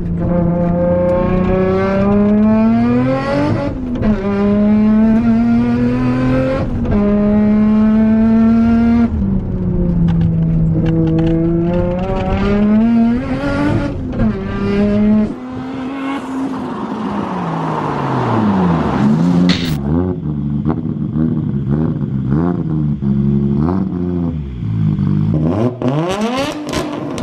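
Nissan Skyline R32's turbocharged straight-six, heard from inside the cabin through a mufflerless exhaust, pulling through the gears: the engine note climbs steadily and drops back at each shift, several times over. Later the pitch swings up and down more quickly.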